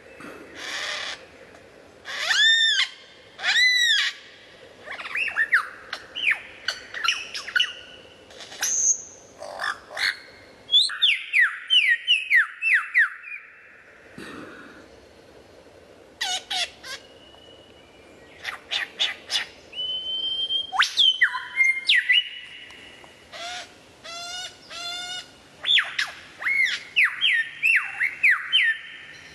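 A succession of different birds calling and singing: whistled arching notes, quick chirps, rising and falling sweeps and fast trills, the kind of call changing abruptly every few seconds.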